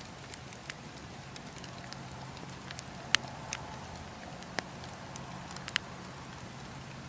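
Wood bonfire crackling, with irregular sharp pops and snaps, the loudest about three seconds in, over a steady low hum.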